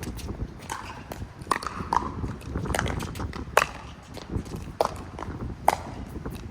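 Pickleball rally: paddles striking the ball and the ball bouncing on the court, a run of sharp hollow pops roughly a second apart, with wind rumbling on the microphone.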